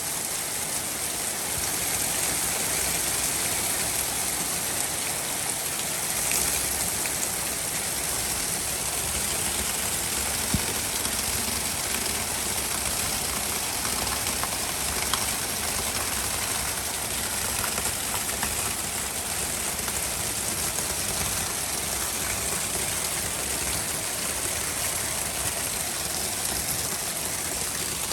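Heavy rain falling steadily as an even, unbroken hiss of a spring thunderstorm downpour, with a couple of single sharp ticks around the middle.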